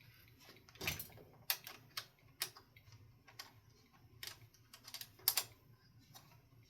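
Scattered light clicks and taps of metal hardware being handled as a ceiling fan motor is bolted to its mount.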